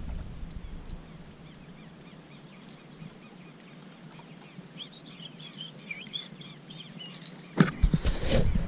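Birds chirping in a quick run of short calls a few seconds in, over a steady faint high hum. Near the end, loud knocks and rustling break in.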